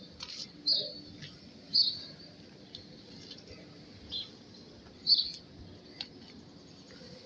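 A small bird chirping: short high calls repeated irregularly, roughly once a second, over a low background hum.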